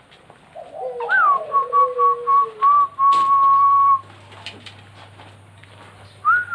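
Zebra doves (perkutut) singing. A clear, high call opens with a rising-and-falling note, runs into a string of short notes, and ends on a long held note, with a lower coo under it. The same phrase starts again near the end, and there is a sharp click about three seconds in.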